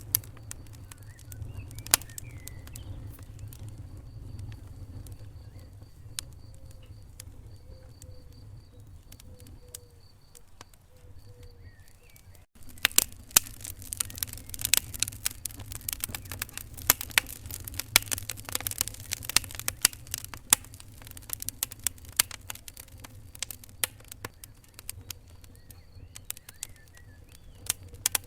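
Wood fire crackling in a fireplace: irregular sharp pops and snaps over a low rumble of flame. The sound cuts out for an instant about halfway through, and the popping comes quicker and denser after it.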